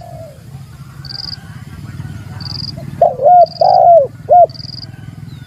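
Spotted dove (tekukur) cooing: one loud phrase of four notes about three seconds in. A short high chirp repeats about once a second over a steady low hum.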